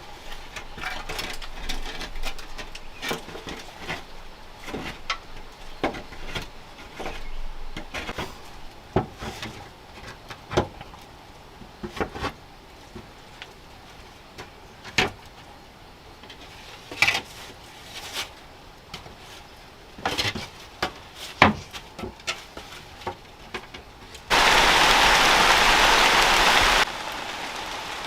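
Irregular sharp knocks and cracks, then about 24 seconds in a loud rush of rain that starts and stops abruptly after about two and a half seconds, leaving a lighter steady patter of rain.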